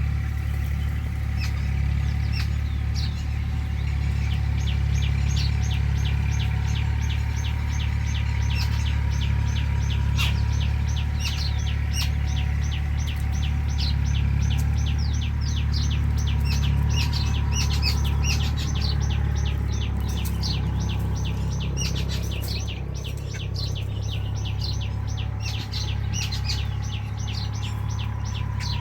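Birds chirping in rapid repeated short high notes, several a second, over a steady low hum.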